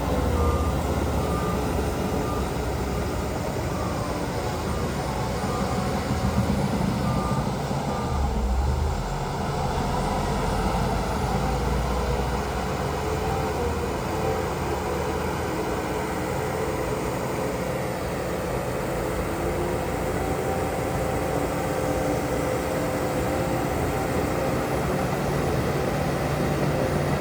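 Heavy diesel earthmoving machines working, their engines running steadily with shifting pitch. A reversing alarm beeps in the first couple of seconds.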